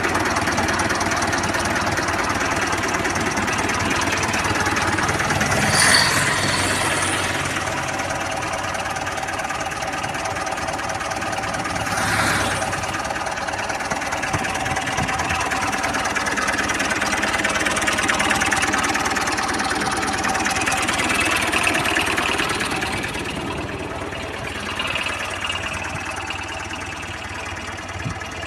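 Restored Ford tractor engine running steadily, with two brief louder moments about 6 and 12 seconds in, easing off a little near the end.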